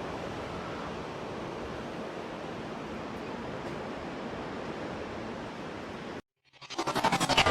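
A steady rushing noise, like strong wind or heavy rain on the microphone, which cuts off abruptly about six seconds in. Near the end a short pulsing swell rises sharply: a transition sound effect between clips.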